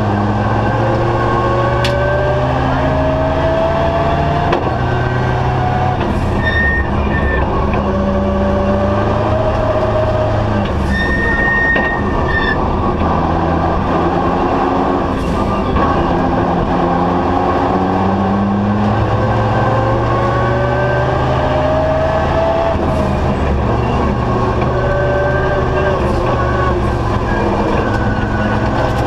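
Volvo 240 Turbo's turbocharged four-cylinder rally engine heard from inside the cabin under hard driving, its pitch climbing over a few seconds and then falling again, several times over, as the car accelerates and shifts or lifts for corners.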